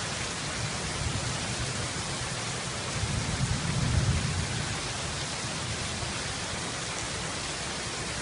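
Steady heavy rain, with a low rumble of thunder swelling and fading about halfway through.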